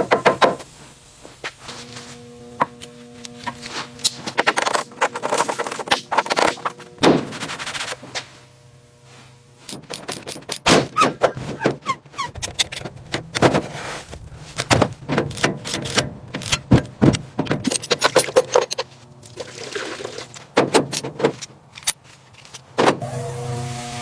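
Irregular run of sharp knocks and clanks, like hand tools and parts striking metal during workshop teardown, coming thick and fast in the middle. Faint steady tones sound underneath at the start and near the end.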